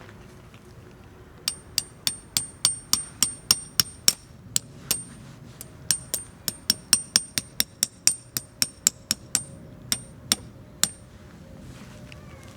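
Hammer blows on metal, about three a second with a short break about halfway, each blow ringing briefly.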